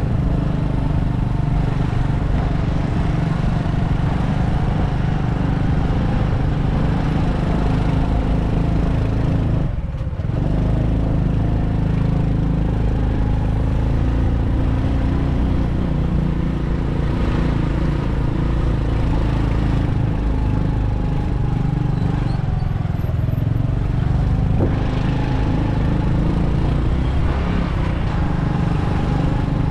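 Motorbike engine running steadily while riding. Its sound drops off briefly about ten seconds in, and later its pitch sags and then climbs again.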